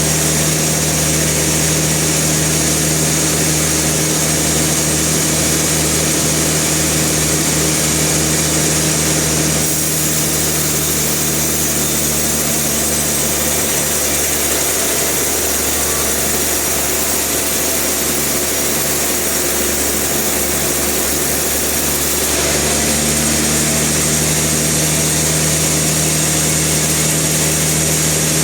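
Sawmill machinery running steadily: an engine hum with a loud hiss over it. The sound shifts about ten seconds in and shifts back about twenty-two seconds in.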